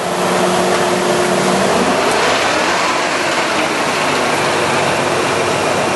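American Pacemaker heavy-duty engine lathe running under power: a steady, loud mechanical rush. A low hum in it drops out about two seconds in.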